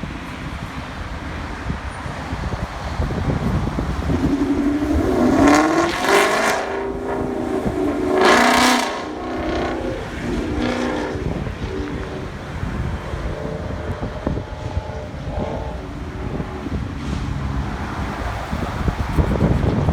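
A car engine revving, loudest in two surges about six and eight and a half seconds in, then settling, over a steady low rumble.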